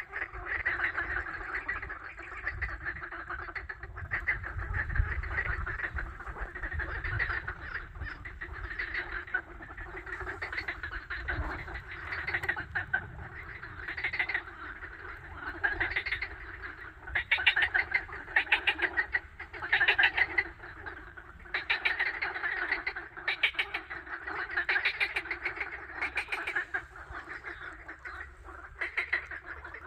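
Ducks quacking and chattering, many calls overlapping, with louder runs of rapid quacks in the second half.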